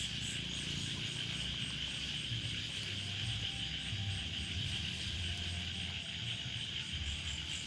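Steady high-pitched chorus of insects such as crickets, with an uneven low rumble underneath.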